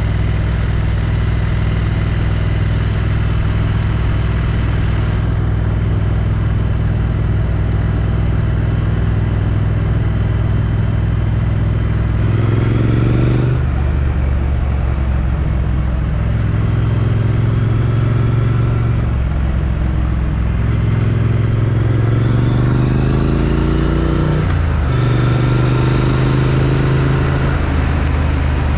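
Triumph Street Twin's 900 cc parallel-twin engine running through its stock exhaust, heard from the rider's position with wind rush. It holds a steady cruise, then revs rise on acceleration about halfway through and drop at a gear change. It pulls up again and shifts once more near the end.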